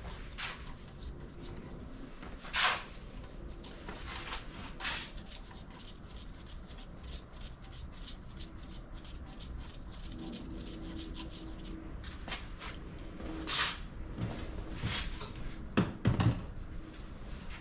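Hand tools and metal engine parts being handled during reassembly: scattered clicks and clinks, with a louder knock about three seconds in and two sharp knocks near the end.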